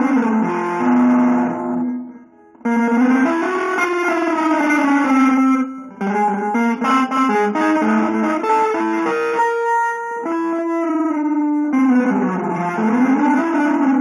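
Electric guitar through effects, playing sustained notes and chords that glide and slide in pitch, with a brief pause about two seconds in.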